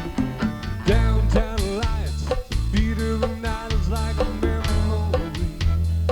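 A band's recorded song playing between sung lines: drum kit keeping a steady beat under bass and guitar, with a melody line that bends in pitch.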